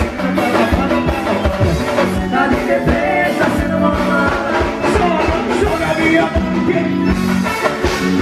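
Forró band playing live: a steady dance beat with a vocalist singing over the band.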